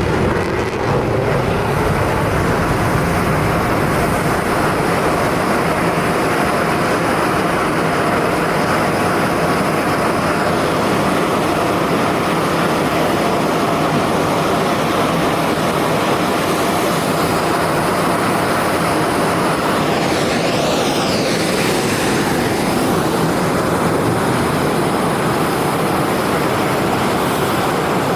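Loud, steady jet noise from an F-22 Raptor's twin Pratt & Whitney F119 turbofan engines in flight, with a falling sweep in pitch about twenty seconds in as the jet passes.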